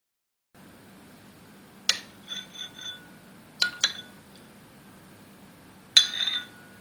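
Dishes clinking together in the kitchen: a sharp ringing clink about two seconds in followed by a few lighter taps, two quick clinks near the middle, and the loudest clink with a short rattle near the end.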